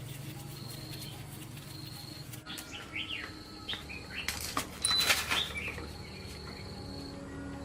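A steady low hum for the first couple of seconds, then several short bird chirps and a cluster of sharp knocks or flaps about halfway through, the loudest part.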